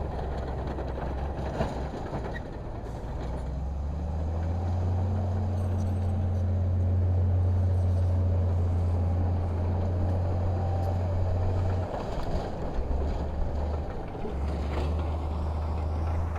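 Heavy diesel engine of earthmoving machinery running with a steady low drone. It builds in load about four seconds in, eases off briefly near twelve seconds, then picks up again, with a few faint knocks.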